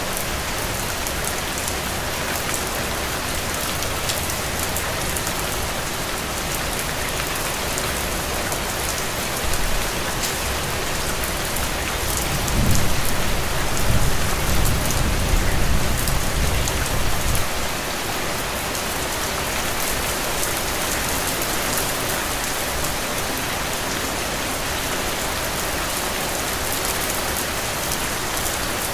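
Heavy, steady rain falling on open ground and puddles, a constant hiss dotted with drop splashes. About halfway through, a low rumble swells for roughly five seconds and then fades back into the rain.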